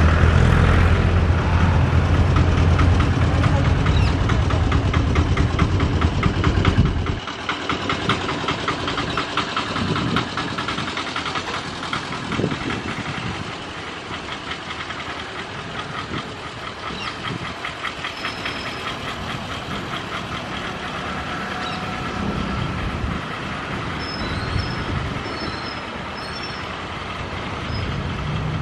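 Electric passenger train approaching along the track, a steady running noise under the overhead wires. A heavy low rumble lasts about the first seven seconds and stops abruptly, leaving a lighter, even background.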